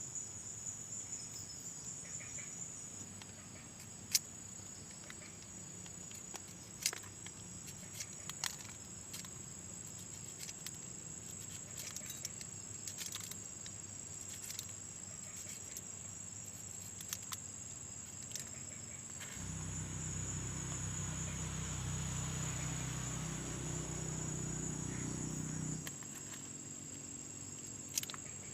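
Insects, likely crickets, chirring steadily in a high, even tone, with scattered sharp clicks. About two-thirds of the way through, a low hum rises for about six seconds and then cuts off.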